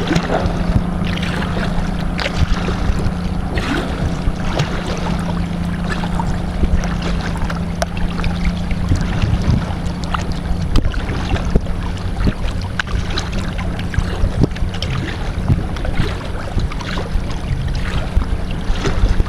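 Kayak paddling on the water: irregular paddle splashes and drips over steady water noise, with wind on the microphone. A steady low motor drone runs underneath, strongest in the first half.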